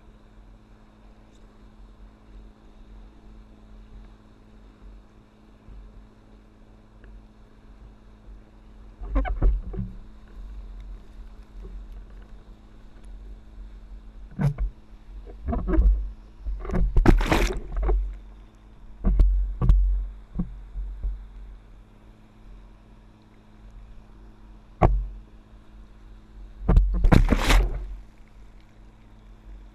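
A motorboat's engine runs in a steady low drone while water rushes and splashes in loud bursts several times as a stand-up paddleboard rides its wake, the biggest in the middle and near the end.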